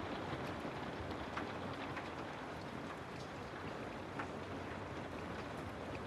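Steady rain, a continuous even hiss with scattered faint drop ticks.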